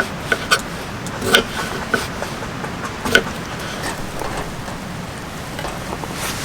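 Light clinks and knocks of camp cookware being handled, a handful of sharp taps, some briefly ringing, with the loudest about a second and a half in and about three seconds in, over a steady hiss.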